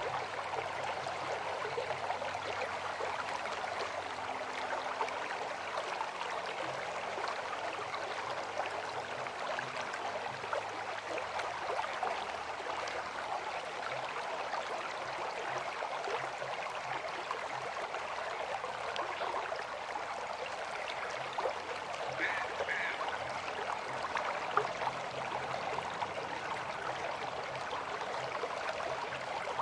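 River water flowing, a steady rushing and gurgling. A brief high-pitched chirp twice, a little after two-thirds of the way through.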